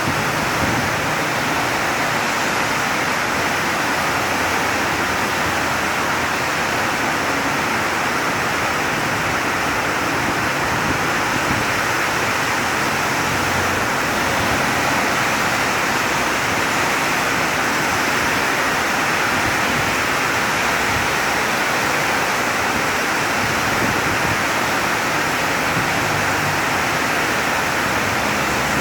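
Heavy rain pouring down, a dense steady hiss that holds at the same level throughout.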